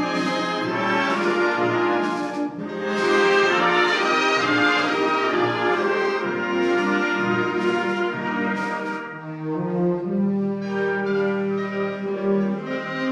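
Community concert band playing a piece, with brass to the fore in sustained chords; about two-thirds of the way through the upper parts drop away, leaving lower held notes.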